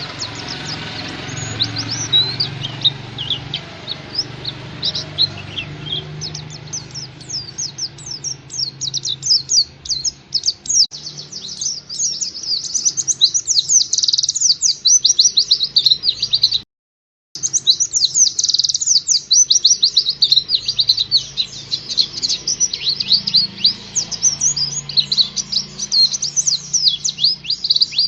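White-eye (pleci) singing in a fast, continuous chatter of quick, high, falling notes. The song cuts out abruptly for about half a second near the middle, then carries on.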